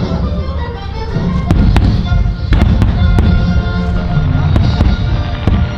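Fireworks bursting in an aerial display: a string of sharp bangs from about a second and a half in, over a heavy low rumble and background music.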